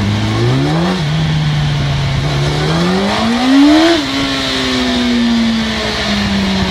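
Motorcycle engine running on a dynamometer, revving up in pitch. About a second in it drops suddenly, then climbs again to its highest and loudest just before four seconds, drops sharply and winds slowly down.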